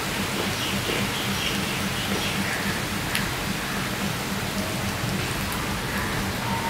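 Steady rain falling, a constant even hiss, with a few faint clicks over it.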